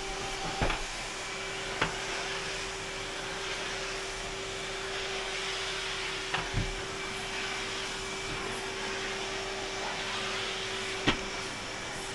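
Numatic Henry HHR200 vacuum cleaner with a 1200-watt motor running steadily while vacuuming, a constant rushing hum with a steady whine. A few short sharp knocks sound over it, about a second in, near the middle and near the end.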